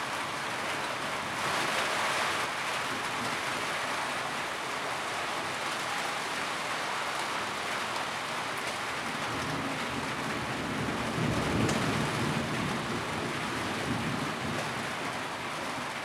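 Steady rain drumming on a tin roof, with a low rumble that swells and fades about two-thirds of the way through.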